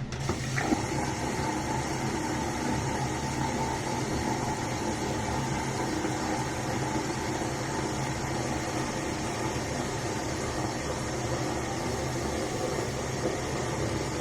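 Steady low mechanical hum, with a slightly higher tone joining about half a second in.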